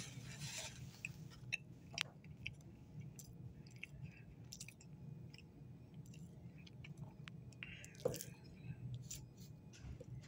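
A person chewing a bite of cookie with the mouth closed: faint wet mouth clicks and smacks, with one sharper click about eight seconds in.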